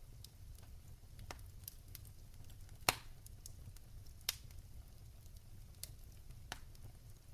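Wood fire in a fireplace crackling: scattered sharp pops and snaps over a low steady rumble of the flames, with two louder snaps about three and four and a half seconds in.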